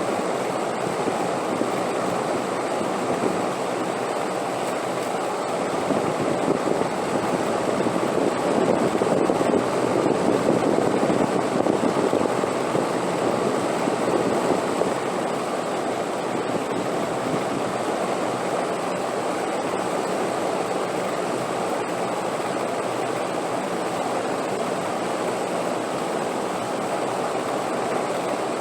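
Steady wind noise, rising a little about a third of the way in and easing back again.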